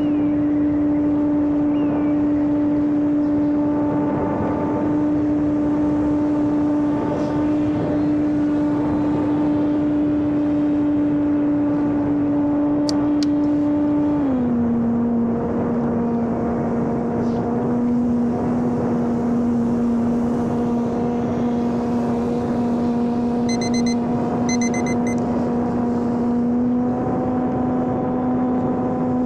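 Homemade radio-control airplane's electric motor and propeller running at a steady pitch. About halfway through, the throttle is eased back and the whine drops to a lower steady tone, then rises slightly near the end. A few short high beeps sound a little past two-thirds through.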